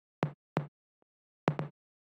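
A short loop of percussion hits through reverb, with the reverb tail of each hit gated off abruptly by a ducking plugin. There are a few dry, clipped hits with silence between them: two early, a faint one midway and a quick pair later.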